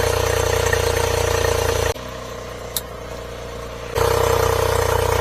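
Three-cylinder kei mini truck engine idling steadily. About two seconds in, the sound drops sharply for two seconds, with one short click during the quieter stretch, then returns to full level.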